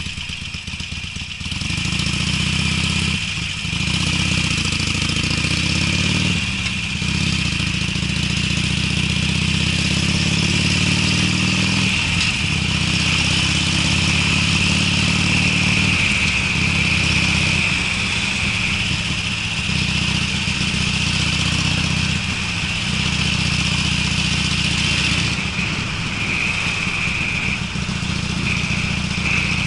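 Harley-Davidson Sportster's air-cooled V-twin running through aftermarket Screamin' Eagle mufflers while under way. It gets louder about a second and a half in, the engine note breaks off briefly twice in the first seven seconds, and then it holds a steady deep exhaust note.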